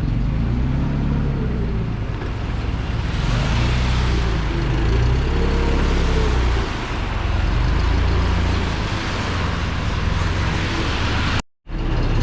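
A vehicle engine running under load, its pitch rising and falling as the revs change. The sound cuts out abruptly for a moment near the end.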